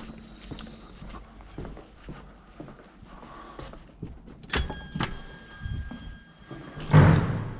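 Scrap metal being handled and loaded into a van: scattered knocks, then a sharp metal clang that keeps ringing for about two seconds just past halfway, and a loud heavy thud near the end.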